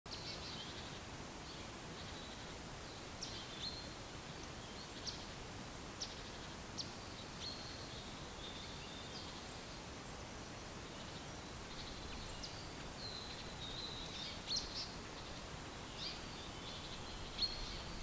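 Birds calling: many short, high-pitched chirps and brief trills, some notes sliding sharply downward, again and again over a steady outdoor hiss.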